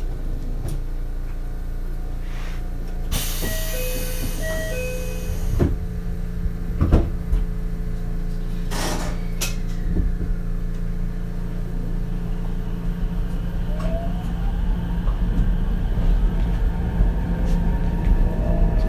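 Ichibata 7000-series electric railcar at a station: a two-note door chime repeats over a loud air hiss as the doors close a few seconds in, and a knock follows. Then the traction motors' rising whine begins as the car starts to pull away.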